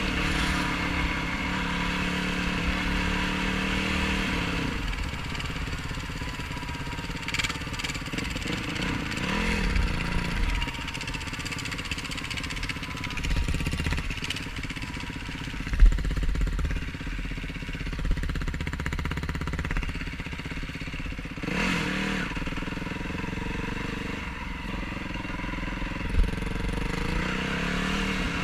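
2018 Yamaha YFZ450R quad's single-cylinder four-stroke engine being ridden off-road, its pitch rising and falling with the throttle over a heavy low rumble. There is a sharp thump about sixteen seconds in and a smaller one near the end.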